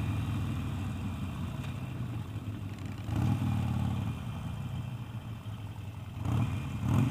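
Harley-Davidson Sportster V-twin running at low speed, swelling with the throttle about three seconds in and again near the end.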